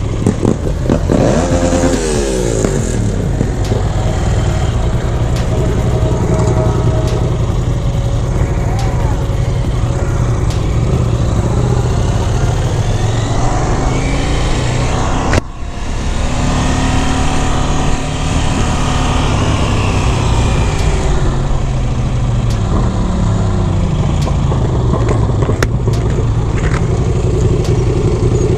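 Motorcycle engine running under way with heavy wind noise, its pitch rising and falling as the revs change. There is a very brief break about halfway.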